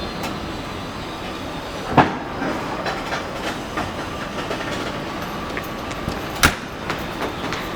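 A train departing, running with a steady rumble, two sharp clanks about two seconds in and near the end, and lighter clicks between them.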